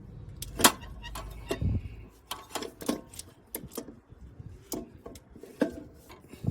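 Irregular metal clicks and knocks as a car's starter motor is worked free of the transaxle and slid out by hand. A low hum lies under the first two seconds.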